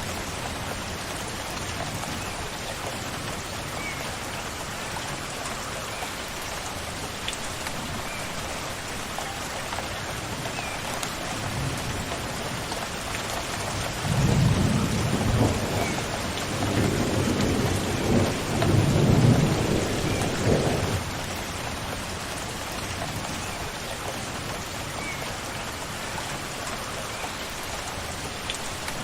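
Steady rain falling, with a low rumble of thunder rolling in about halfway through and lasting some seven seconds.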